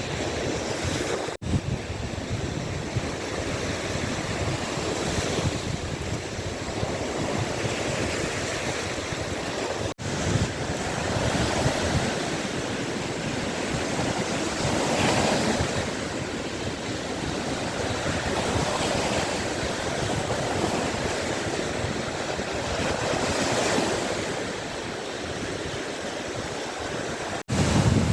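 Waves of the Gulf of Finland washing on the shore, swelling and easing every few seconds, with wind on the microphone. The sound drops out for an instant three times.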